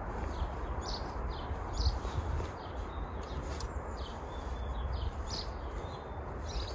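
Small garden birds chirping, a scattered run of short high chirps, over a steady low rumble and hiss.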